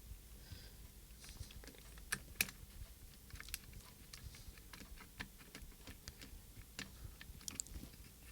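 Faint, irregular small clicks and taps from handling the opened plastic case and small parts of a radio-control transmitter during disassembly, with a couple of sharper clicks about two seconds in.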